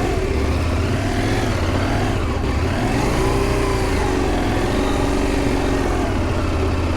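KTM adventure motorcycle engine revving up and down under load while the rider fights for grip on a slippery, muddy slope, heard through an in-helmet mic.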